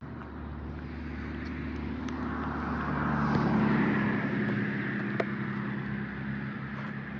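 A car driving past, its engine hum and tyre noise growing louder to a peak about halfway through, then fading.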